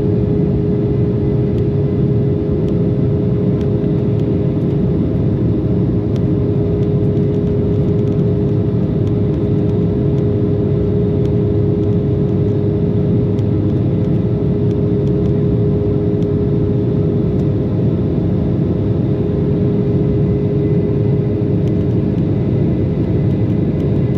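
Jet cabin noise aboard an Embraer 190 in flight: the CF34 turbofans and airflow make a steady rush, with a constant hum.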